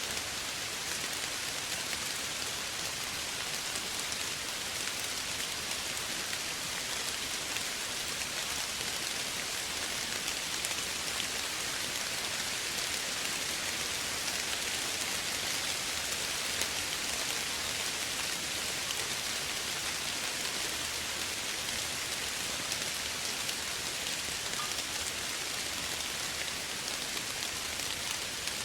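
Steady soft rain falling, a continuous even hiss of many small drops with fine scattered patter.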